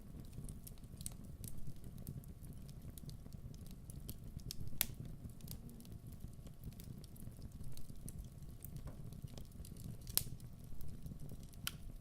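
Wood fire crackling: a steady low rumble of burning with irregular sharp pops and snaps, two louder pops about five and ten seconds in.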